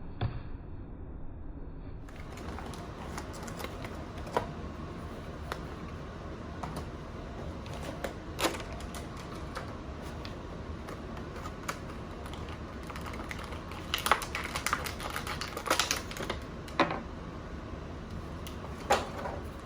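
Action-figure packaging being opened and handled: scattered sharp clicks and crinkles of cardboard and plastic, busiest near the end, over a steady background hiss.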